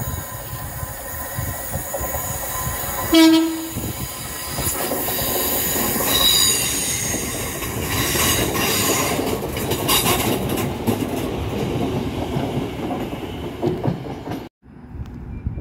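Northern Class 323 electric multiple unit approaching and running through the platform: a short horn blast about three seconds in, then a growing rumble and clatter of wheels on rail with a brief high wheel squeal. The sound cuts off abruptly near the end.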